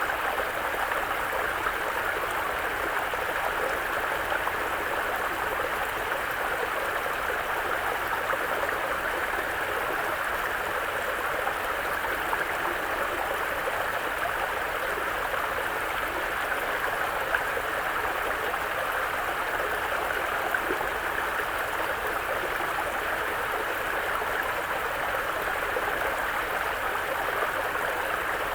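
Mountain brook flowing over rocks: a steady, even rush of running water.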